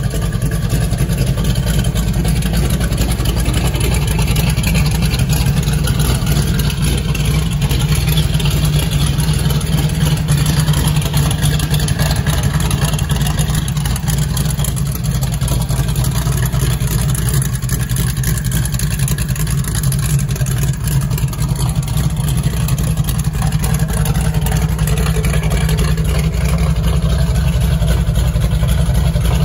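A 276 cubic inch Ford flathead V8 with an Isky 400 Jr camshaft, in a 1931 Ford Model A hot rod, idling steadily.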